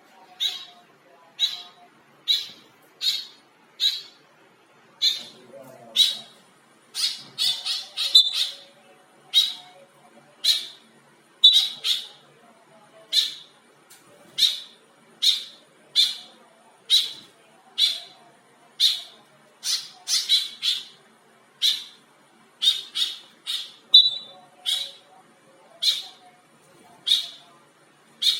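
White-breasted woodswallow (kekep) giving short harsh squawking calls over and over, about one a second, sometimes two in quick succession.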